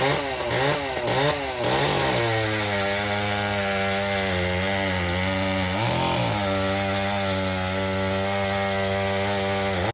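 Vintage two-stroke chainsaw revved up and down several times, then held at a steady high speed, with one brief drop in engine speed about six seconds in.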